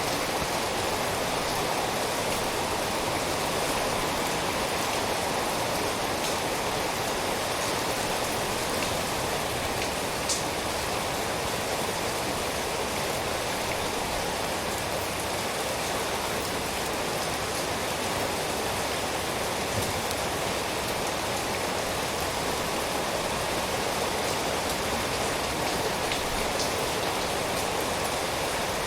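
Steady rain falling, an even, dense hiss with a few single drops ticking out of it, one more sharply about ten seconds in.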